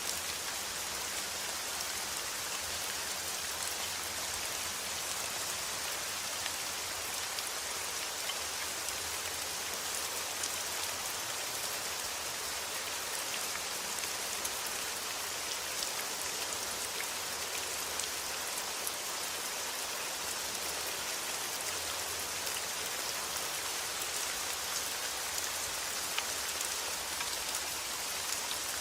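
Steady rainfall: an even hiss of rain with many small drops pattering on a surface.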